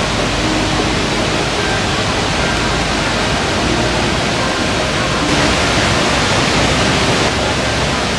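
Wangcun Waterfall's falling water rushing loud and steady, a dense hiss that grows a little brighter for about two seconds past the middle.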